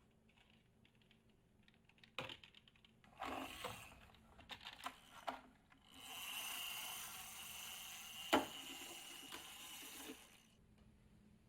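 Small plastic balls clicking and rattling along a wooden marble-run track, in scattered bursts. Then a steady whirring hiss runs for about four seconds, with one sharp click in the middle of it.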